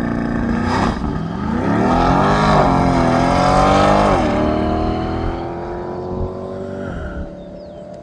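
Land-speed race car launching from the starting line and accelerating away through the gears: engine pitch climbs, drops at each upshift about two and a half, four and seven seconds in, and the sound fades as the car pulls away down the course.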